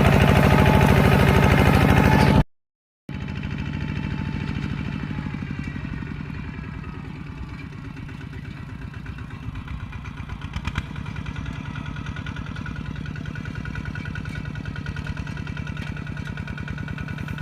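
Tractor engine running steadily with a fast, even pulsing. It cuts off abruptly about two and a half seconds in, returns after half a second somewhat quieter, and then runs on unchanged.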